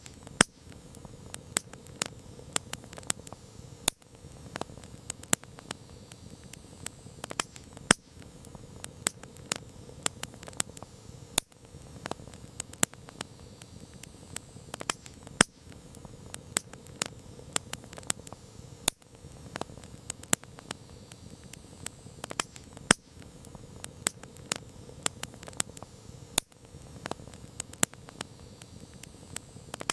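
Wood campfire crackling: irregular sharp pops and snaps, several a second and a few much louder, over a soft steady hiss of burning.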